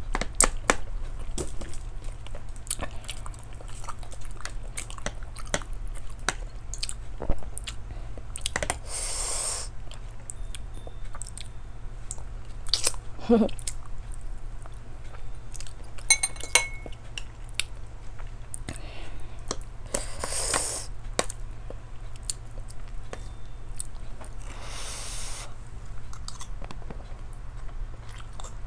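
Close-miked mouth sounds of a person eating rice and soup with spoon and fork: chewing, with metal cutlery clinking and scraping on a ceramic plate. Three airy hisses of about a second each are heard along the way.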